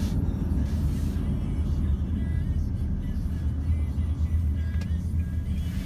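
Steady low rumble of a car driving, heard from inside the cabin, with music playing over it.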